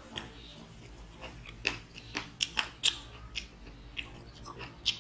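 Close-miked chewing of a mouthful of food, with sharp wet mouth clicks and smacks that come thickest in the middle.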